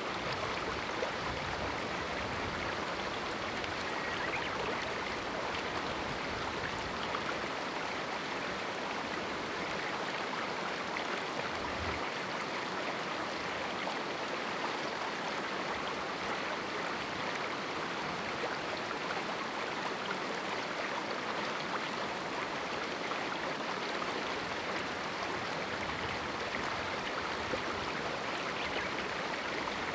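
A small river or stream running over rocks: a steady, even rush and babble of flowing water.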